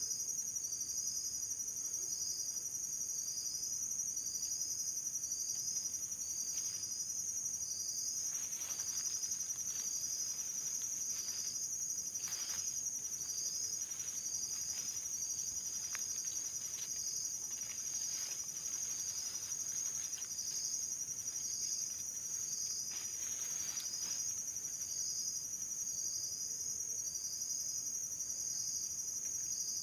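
Insects chirring: a steady high-pitched drone with a short chirp repeating about once a second, and a few faint brief rustles in the middle.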